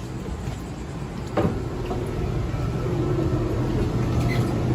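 Steady hum of the trailer's rooftop air conditioner, growing louder about halfway through, with a single knock about a second and a half in.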